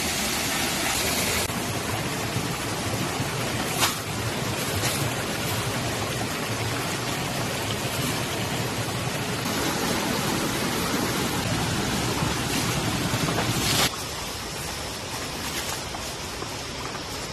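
Steady rushing of water, a loud even hiss, with a sharp knock about four seconds in. The level drops suddenly near the end.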